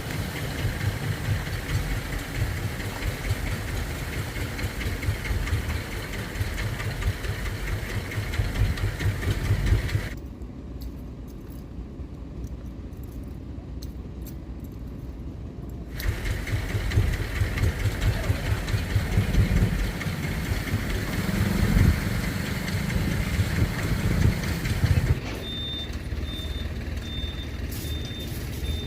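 A motor vehicle's engine running with a low, pulsing rumble, which drops away abruptly for about six seconds in the middle and then returns. A faint, steady high tone comes in near the end.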